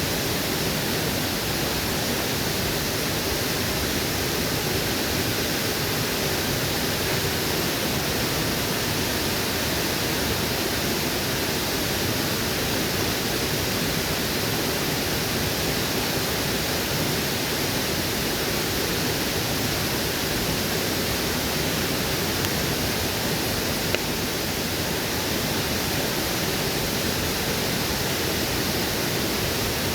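Waterfall rushing steadily, an even unbroken roar of falling water, with a single short tick near the end.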